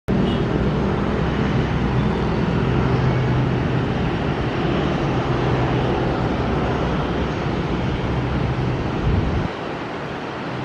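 Airbus A330-223 jet airliner noise during landing: a steady rush of engines and air with a low hum. The low rumble drops away about nine and a half seconds in.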